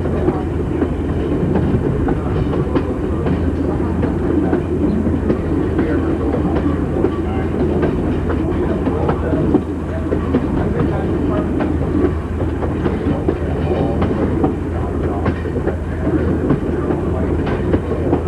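Passenger railroad car rolling along the track: a steady rumble of steel wheels on rail with irregular clicks and rattles from the rail joints and car.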